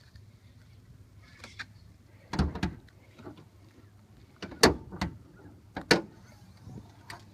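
Several sharp clunks and knocks from a car's body as it is handled to get under the hood: latch and panel knocks, the loudest about four and a half and six seconds in.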